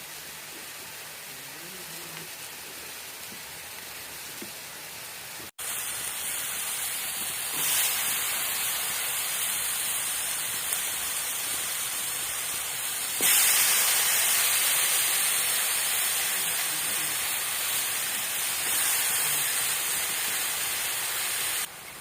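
A steady hiss that breaks off abruptly about five seconds in, then goes on louder, stepping up and down suddenly a few times.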